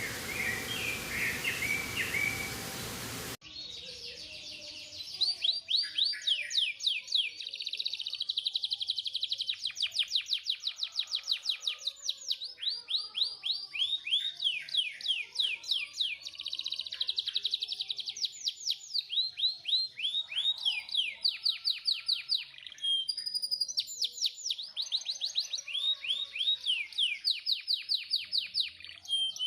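Domestic canary singing in full song: long phrases of fast rolling trills, each made of rapid repeated notes sweeping down in pitch. The first three seconds or so are steady hiss with a few faint chirps, then the loud song cuts in abruptly.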